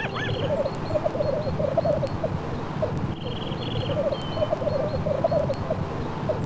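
Domestic turkeys gobbling: quick rattling gobbles, one after another, over a busy flock murmur, with a short high chirping trill twice.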